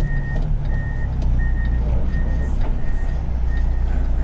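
Reverse warning alarm beeping steadily, about three beeps every two seconds, fading near the end, over the low, steady run of an idling diesel semi-truck engine.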